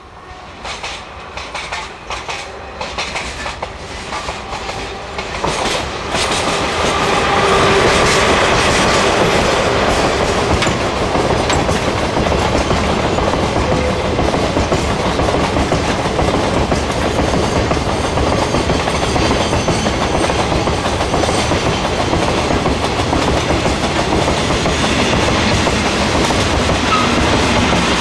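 Freight train approaching and running past close by, its wheels clicking over the rail joints. The noise builds over the first six seconds, then stays loud and steady as the wagons go by.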